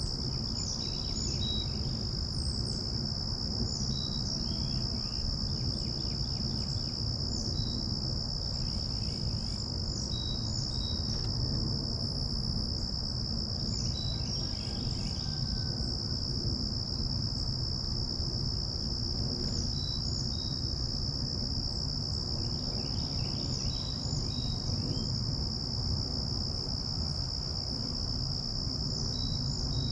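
Steady, unbroken high-pitched insect trill, with short bird chirps scattered through it every second or two, over a low steady rumble.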